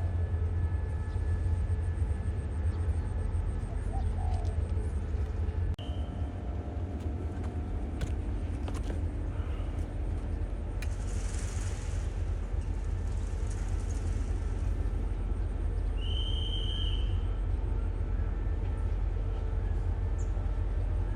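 Diesel locomotive running with a steady low rumble. Short bird calls come about six seconds in and again about sixteen seconds in.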